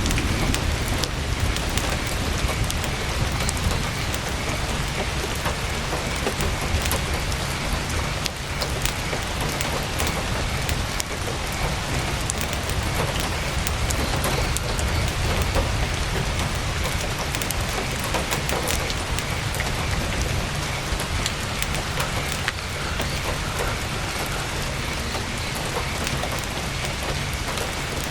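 Heavy rain drumming on a tent's canvas: a dense, steady hiss with scattered sharp ticks and crackles, over a constant low rumble.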